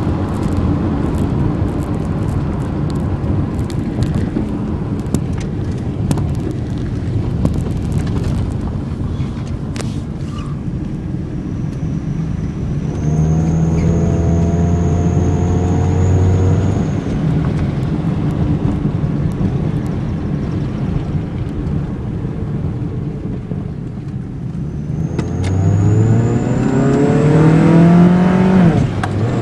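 Toyota Corolla engine accelerating twice, with an exhaust-tip turbo whistler adding a high thin whistle over the engine each time: steady on the first, gentler pull, and rising in pitch with the revs on the second, harder pull near the end.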